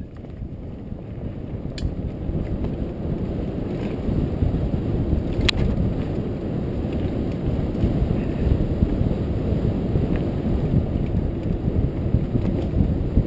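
Wind buffeting a GoPro's microphone on a moving mountain bike, mixed with the rumble of tyres over the trail, growing louder over the first few seconds. A single sharp click about five and a half seconds in.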